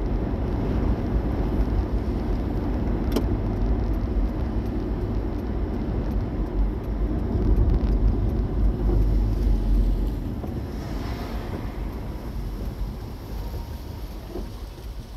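A car driving, its low road and engine rumble steady at first and quieter from about ten seconds in. A single sharp click comes about three seconds in.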